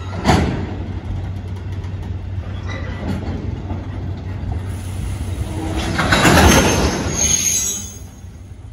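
Freight train of Taiheiyo Cement tank wagons rolling past, the wheels clattering over the rail joints. A sharp clank comes about a third of a second in, the clatter swells louder around six to seven seconds in with a brief high wheel squeal, then eases off near the end.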